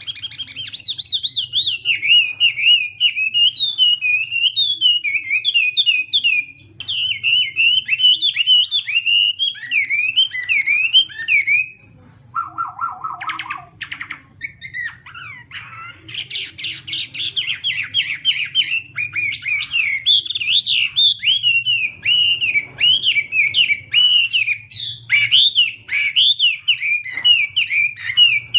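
Chinese hwamei singing its loud fighting song: a fast, varied run of rising and falling whistled notes, with a brief pause and a short lower trill about halfway through.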